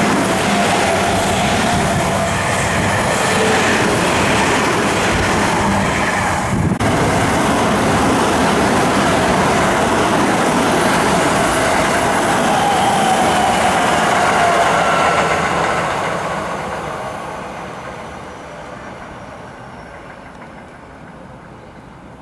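Electric commuter trains passing close by: wheels running on the rails and a motor whine that glides up and down in pitch. There is a brief break about seven seconds in where one train gives way to the next. The sound fades steadily from about sixteen seconds on as the train draws away.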